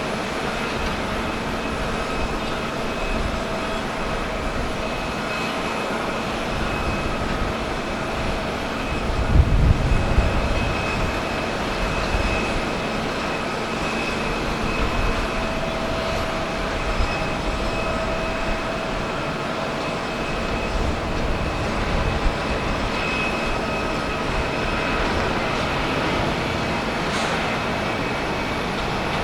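Jet airliner engines running at takeoff power: a steady rush with a high engine whine, and a burst of low rumble about nine to ten seconds in.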